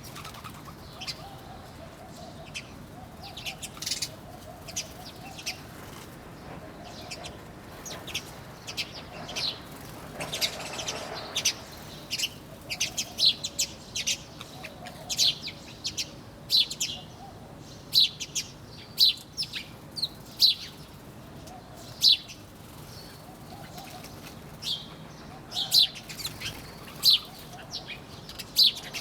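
A crowd of birds chirping: many short, sharp chirps from several birds overlapping, with a soft lower call repeating every second or two underneath.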